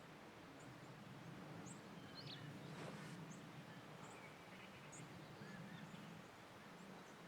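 Faint outdoor quiet with a small bird giving short, high chirps about once a second, over a low steady hum.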